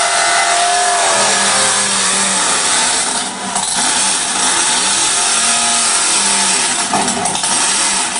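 A loud engine running steadily, with a brief drop in level about three seconds in.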